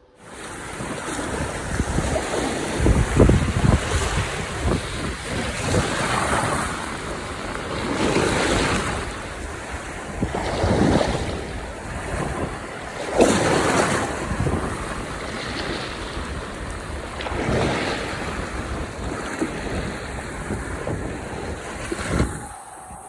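Sea waves breaking on the shore, a rushing wash that swells and falls back every few seconds, with wind buffeting the microphone.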